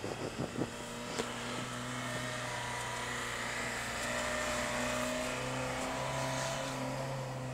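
Honda Fit 4WD's small four-cylinder petrol engine held at steady revs as the car ploughs through deep snow, with a few sharp knocks in the first second or so.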